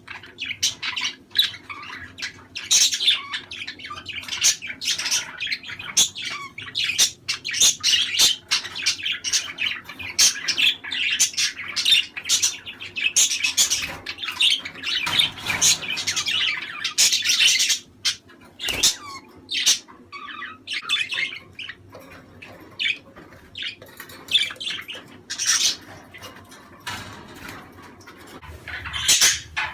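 A flock of budgerigars chattering, warbling and squawking in dense, overlapping chirps that thin out to scattered calls a little past the middle. This is the flock chatter played to pet budgies to stimulate breeding.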